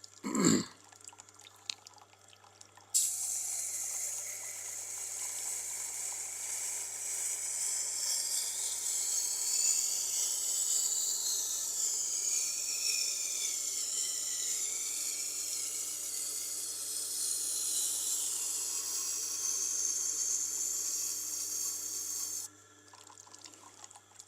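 Steel knife blade being ground on a Tormek's water-cooled sharpening stone: a steady wet, hissing grind that shifts in pitch, starting about three seconds in and stopping shortly before the end. A single thump comes just before it starts.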